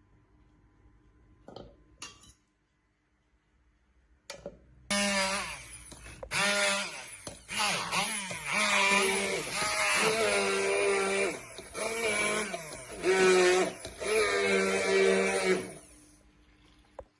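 Electric kitchen blender motor run in several bursts for about ten seconds, its pitch dipping and recovering as it works through the food. A few light knocks come before it starts.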